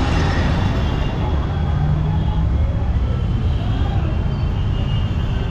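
Steady low rumble of vehicle noise, with faint voices in the background.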